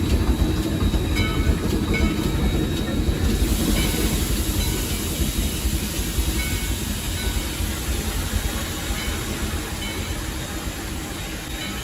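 Three-truck superheated Shay geared steam locomotive running, heard from the cab: a steady heavy rumble of the engine and wheels on the track, with scattered short high squeaks. A hiss of steam comes in about three and a half seconds in, and the rumble slowly eases off.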